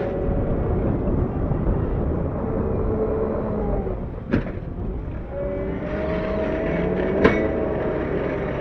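CAT 908 compact wheel loader's diesel engine running under load, its pitch dipping and rising again. Two sharp knocks cut through the engine sound, one about four seconds in and a louder one about seven seconds in.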